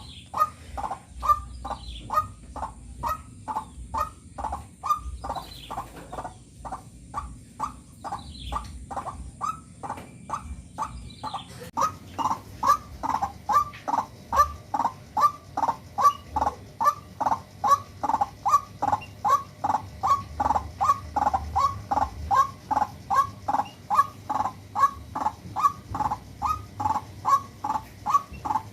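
A white-breasted waterhen calling a harsh, monotonous note over and over, about two and a half calls a second, getting louder about twelve seconds in. A few faint chirps from smaller birds can be heard in the first part.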